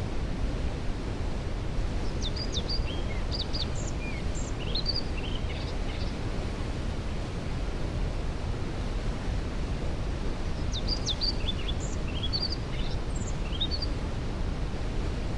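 Steady rushing of a waterfall heard from some distance, heaviest in the low end. Over it a songbird sings two similar short phrases of quick high chirps, one about two seconds in and one about eleven seconds in.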